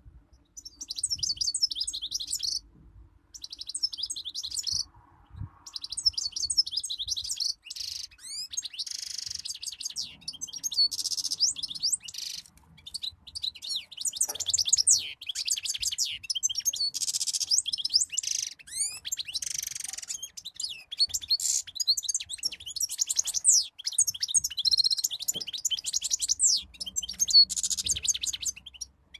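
European goldfinch singing: long runs of rapid, high twittering and trills, broken by a few short pauses.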